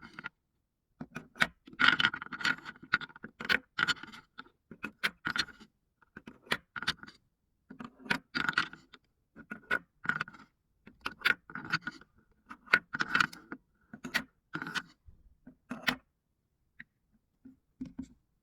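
Marbles rolling and clattering down a marble run: clusters of sharp clicks and rattles, one after another about every second, that stop about sixteen seconds in, with a few faint clicks near the end.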